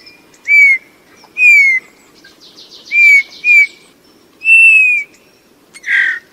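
Eurasian bullfinch calling: soft, short, falling piped whistles, about six of them, one drawn out a little longer, with a faint scratchy twitter between them in the middle and a short harsh note near the end.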